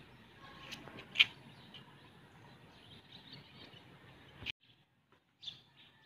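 Garden ambience with a few short bird chirps, the loudest about a second in, over a faint steady outdoor hiss. The hiss cuts off suddenly after about four and a half seconds, leaving only occasional chirps.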